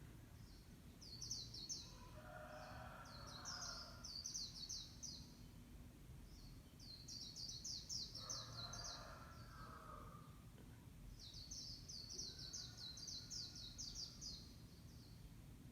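A songbird singing three rapid, high chattering phrases, each lasting about three seconds, with short pauses between them. A lower, softer call sounds twice beneath the first two phrases.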